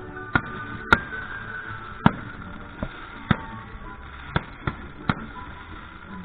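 Fireworks going off: about eight sharp bangs at uneven intervals, the loudest two in the first two seconds, over music playing.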